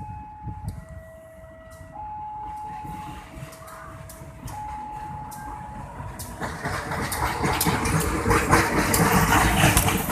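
A two-tone electronic warning alarm alternates steadily between a high and a low note, each held for about a second and a half. From about six seconds in, the noise of an approaching train rises and grows loud, covering it.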